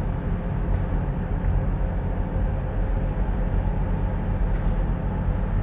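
Car driving steadily along a forest road: a constant low engine and road rumble with no change in speed. Faint high chirps come and go above it.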